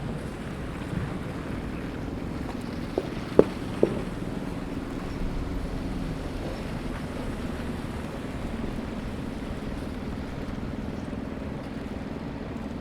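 Steady city street traffic rumble with wind noise and a low engine hum, broken by three short sharp knocks about three to four seconds in.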